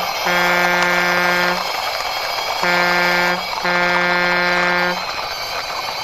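Electronic horn of a toy mixer truck sounding in three long, flat beeps of one steady pitch, each about a second long, over a constant rushing hiss.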